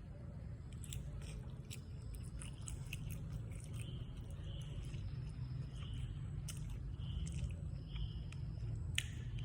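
Close-miked eating: chewing and biting, heard as many short sharp clicks over a steady low hum.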